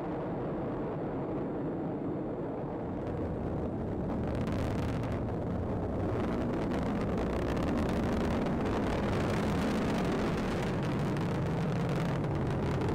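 Atlas V rocket with its solid rocket boosters in powered ascent: a steady, noisy rumble with a crackling edge that grows a little louder and brighter about four seconds in.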